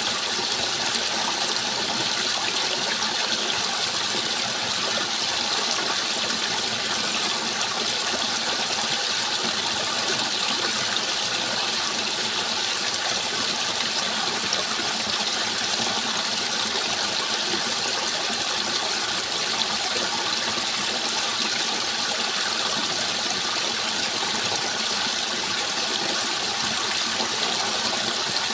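Flowing water rushing steadily and evenly, a constant hiss-like wash with no breaks.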